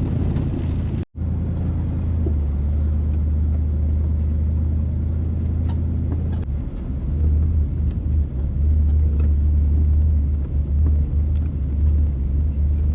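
Truck driving along a dirt trail, heard from inside the cab: a steady low engine and road rumble. The sound drops out briefly about a second in.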